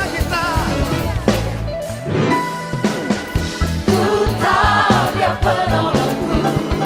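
Praise-and-worship song played by a band with drums and bass, with singing voices.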